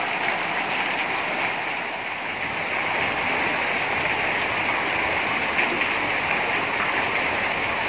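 Heavy rain falling into a sheet of standing floodwater: a steady, dense hiss of drops splashing on the water's surface.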